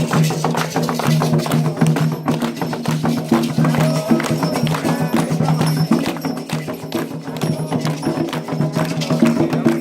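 Candomblé ceremonial music with dense, rhythmic percussion strikes over sustained low pitched tones.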